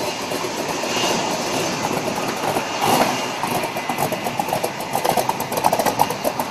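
Vehicle engine running with a dense rumble; a rapid, uneven pulsing grows stronger from about halfway through.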